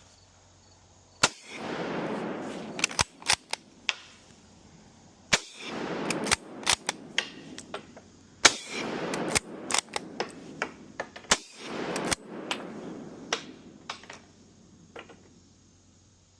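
Kar98k bolt-action rifle (7.92×57mm Mauser) fired four times, about three to four seconds apart, each shot followed by a rolling echo. Smaller metallic clicks between the shots are the bolt being worked to chamber the next round.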